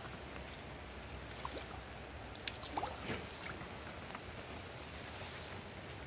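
Light rain and water noise, steady and faint, with a few brief splashy ticks about halfway through as a hooked crappie is brought in.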